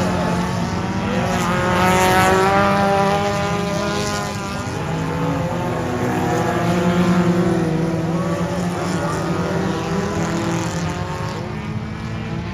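Several dirt-track race cars running laps, their engine notes rising and falling as they pass, swelling about two seconds in and again around seven seconds.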